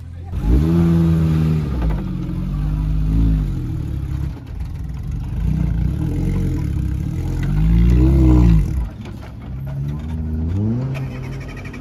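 Suzuki Sierra four-wheel drive's engine revving hard and dropping back about five times in a row, working under load as it climbs a steep, rutted dirt gully.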